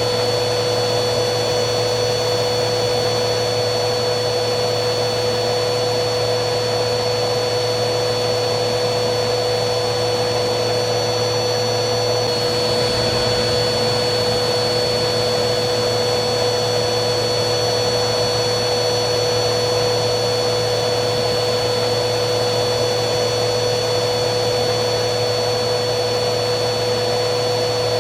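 Vacuum cleaner running steadily: a continuous motor drone with a high whine, the whine's pitch stepping slightly about twelve seconds in.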